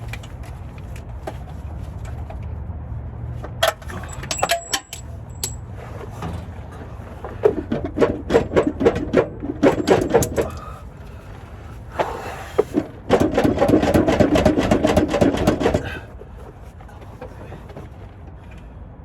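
Power impact wrench hammering on bolts in two runs, a stuttering one of about three seconds and a louder steady one of about three seconds near the end, with a few metallic clicks before them.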